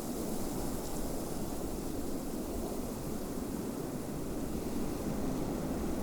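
Steady, low rushing wind of a snowstorm, even throughout with no separate sounds standing out.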